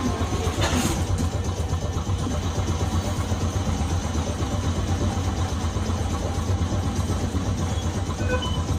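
Nagasaki Electric Tramway 370-series tram car heard from inside, running along the track with a steady low rumble of motors and wheels on rail. A brief knock sounds about a second in.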